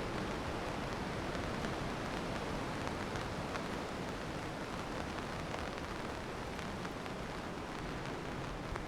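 Steady rain: a continuous hiss with faint, scattered drop ticks and a low rumble underneath.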